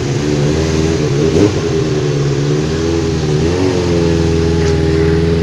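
Kawasaki GPz 400 motorcycle engine running, its pitch wavering slightly with the throttle and dipping briefly around the middle.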